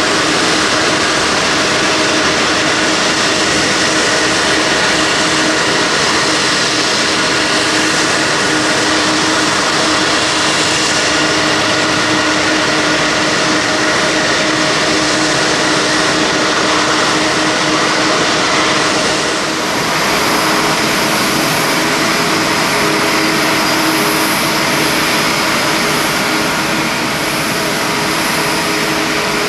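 Airbus A340-500's Rolls-Royce Trent 500 jet engines running on the ground at pushback: a steady, loud rushing hiss with several steady turbine whines. About two-thirds of the way through the sound shifts and a higher whine joins in.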